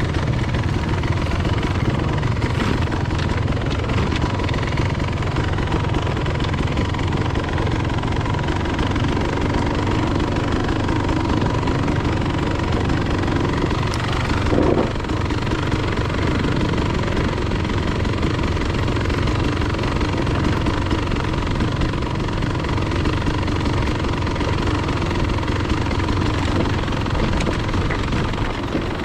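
Enduro dirt bike engine running steadily while riding, with a brief louder moment about halfway through.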